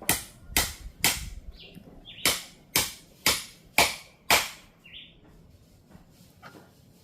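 A knife chopping chicken pieces on a cutting board: eight sharp strikes about two a second, stopping a little past halfway. Birds chirp briefly a few times.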